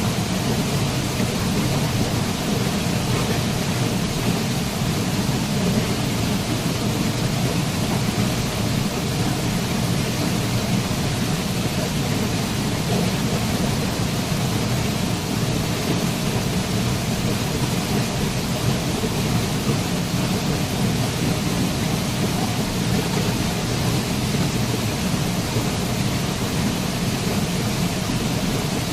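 Waterfall: a steady, unbroken rush of falling water, with a deep rumble in the low range.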